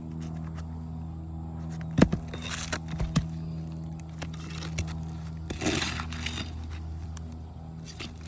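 Roofing nails being worked out of an old asphalt shingle: a few sharp knocks, the loudest about two seconds in, then a scrape a little past the middle. A steady low hum runs underneath.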